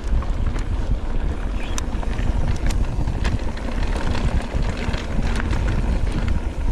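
Wind buffeting the microphone and the low rumble of mountain-bike tyres rolling over a dirt trail, with scattered sharp clicks and rattles from the bike.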